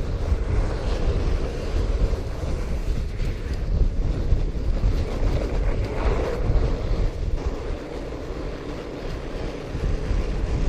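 Wind buffeting the microphone of a camera riding on a fat bike over snow trails, a steady low rumble that eases slightly about eight seconds in.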